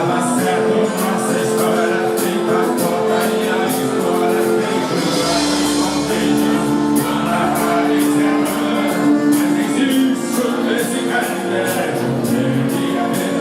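Live band music: long held chords over a steady beat of sharp percussion strokes.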